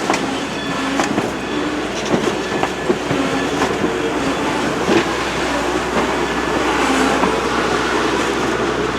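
Steam-hauled passenger train rolling slowly, its wheels clicking over rail joints with irregular knocks and brief squeals.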